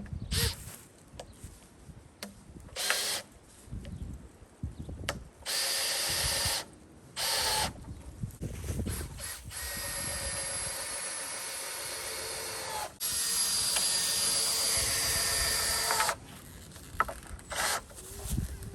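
Power drill running in several short bursts, then one long steady run of about seven seconds that grows louder partway through.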